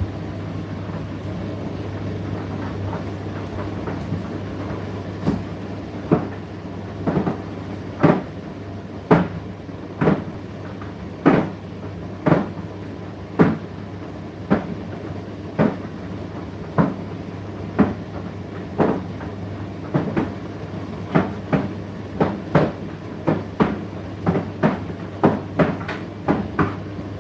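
Indesit IDC8T3 condenser tumble dryer running with a steady low hum, with a load tumbling in the drum and knocking about once a second from a few seconds in, the knocks coming faster near the end.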